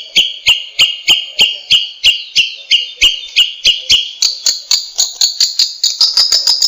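Cendet shrike giving a fast, harsh repeated call, each note sharp-edged, about three notes a second, speeding up over the last two seconds.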